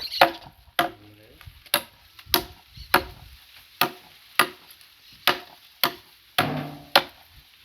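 Wood being chopped: about a dozen sharp blows landing on wood at a steady pace, roughly one every half second to a second.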